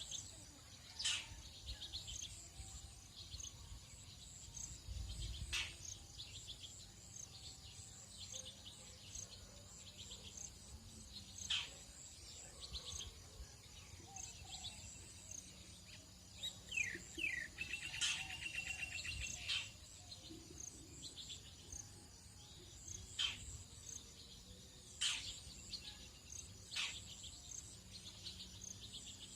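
Tropical dawn chorus: insects trill steadily in a high pulsing band, while birds give sharp chirping calls every few seconds and a brief trill about 18 seconds in.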